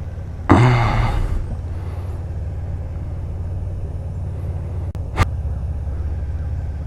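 A vehicle engine idling with a steady low hum, a louder rush of noise about half a second in, and a single sharp click near the five-second mark.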